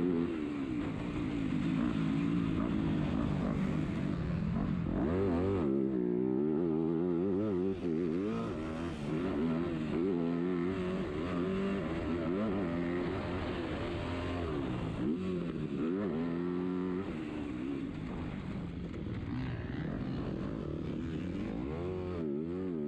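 MX2-class motocross bike engine heard from on board while being ridden hard. It revs up and drops back again and again with the throttle and gear changes, its pitch rising and falling several times.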